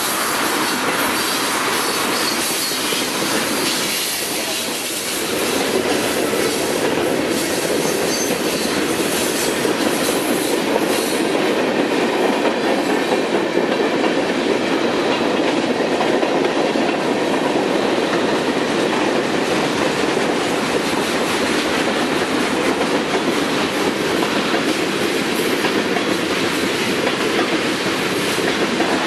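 Norfolk Southern freight train cars rolling past: a steady clatter of steel wheels on the rails, with a brief dip in loudness about four seconds in.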